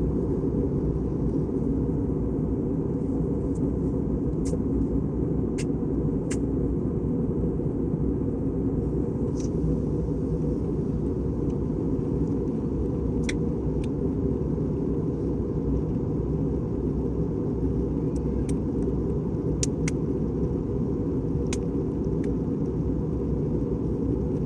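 Steady low rumble of an Airbus A320's engines and airframe heard inside the passenger cabin, with a faint steady tone and scattered light clicks and rattles.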